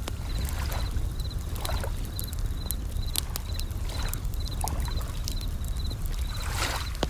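Bell crickets (suzumushi) chirping in short high trills about twice a second, over a crackling campfire with sharp pops and waves washing in now and then on a low rumble.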